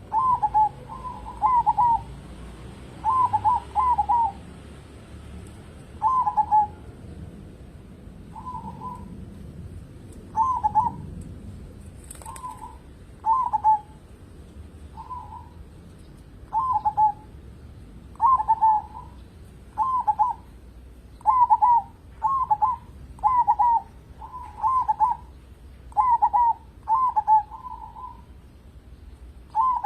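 Zebra dove cooing over and over in its staccato song: short phrases of rolling coo notes, some single and some in quick runs of two or three, every second or two.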